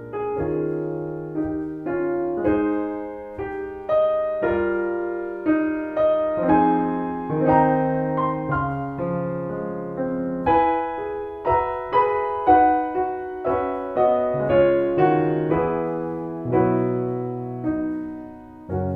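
Solo piano music playing: a slow, gentle piece of struck chords and melody notes, each ringing out and fading.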